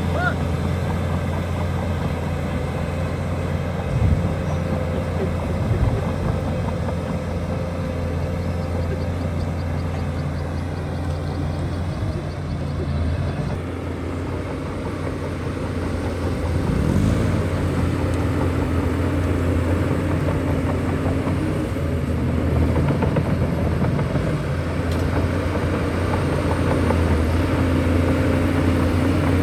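Shantui DH17C2 bulldozer's diesel engine running steadily under load, with a sharp knock about four seconds in and another about two seconds later.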